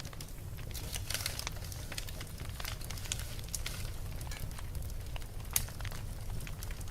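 Wood fire crackling and popping in a fireplace, irregular small snaps over a low steady rumble, with one sharper pop about five and a half seconds in.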